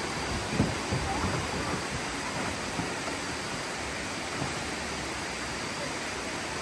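Steady rush of water from a cascading waterfall, with a few faint knocks about half a second to a second in.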